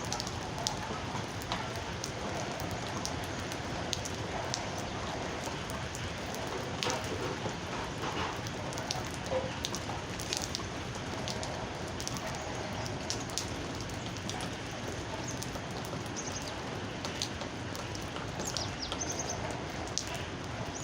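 Steady rain falling on a surface: a constant hiss with many scattered drip taps. A few faint, short, high bird chirps come in near the end.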